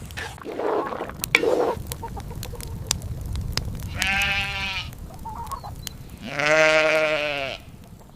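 A farm animal bleating twice, each call wavering in pitch: a shorter call about four seconds in, then a longer, louder one near the end. A few sharp clicks come before the calls.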